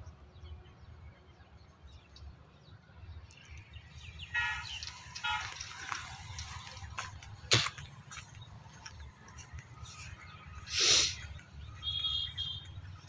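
Birds calling in the open over a low rumble of handling and wind noise, with short chirping calls twice. A sharp tick comes about halfway through, and a brief loud rush of noise about eleven seconds in.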